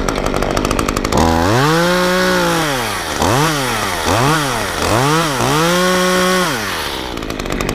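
Efco MTT 3600 top-handle two-stroke chainsaw being revved while warming up. It idles for about a second, runs up to a held high rev, drops, gives three quick blips of the throttle, holds a second high rev, then falls back to idle near the end.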